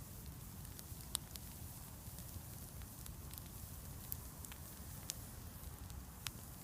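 Bonfire crackling, with scattered sharp pops over a low, steady rumble.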